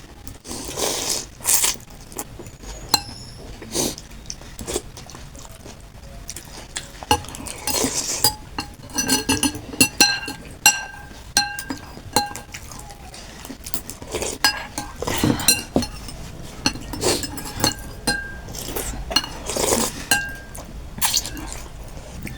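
Utensils clinking against a bowl again and again while eating noodle soup, some clinks ringing briefly, with softer slurping and eating noises between them.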